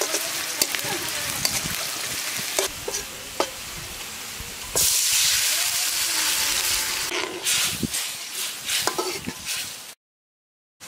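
Sliced onions frying in hot oil in a metal wok, sizzling, with a spatula clicking and scraping against the pan. About five seconds in, coconut milk is poured in and the sizzle jumps suddenly louder, then slowly dies down. The sound cuts off abruptly to silence just before the end.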